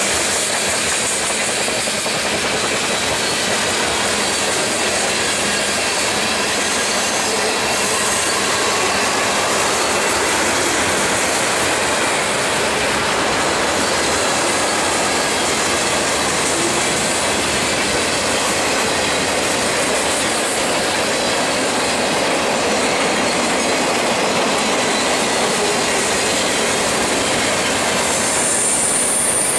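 Cars of a Norfolk Southern mixed manifest freight train rolling steadily past: tank cars, boxcars and centerbeam flatcars, with a continuous rumble of steel wheels on rail. A high, thin wheel squeal comes in near the end.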